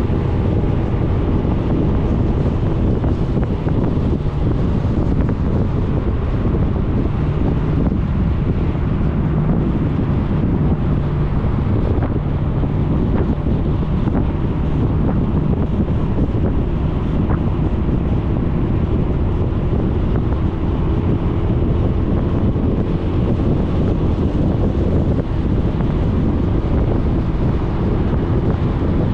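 Wind buffeting the microphone while riding a Suzuki Burgman 400 scooter, with the steady drone of its single-cylinder engine underneath.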